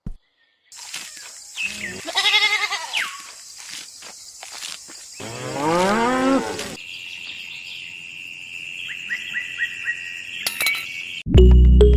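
A cow mooing twice, a short call and then a longer, louder one, followed by a steady high ringing tone with a few small chirps. Music comes in near the end.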